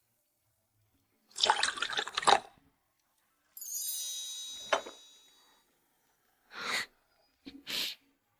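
Red wine sloshing and gulped from a glass for about a second, then a bright ringing shimmer with a single ding that fades out, and two short breaths near the end.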